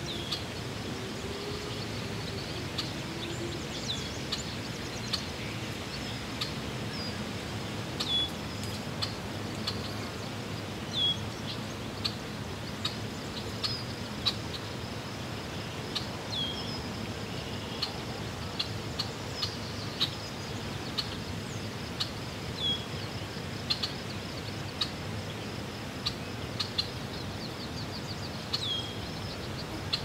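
Outdoor park ambience: a bird repeats a short, high chirp every few seconds, with other brief calls in between. Under it runs a steady low background rumble, and a faint, steady high insect trill.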